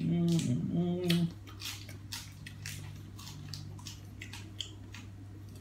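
A short voiced sound, then a person chewing food close to the microphone, with many irregular wet mouth clicks and smacks. A steady low hum runs underneath.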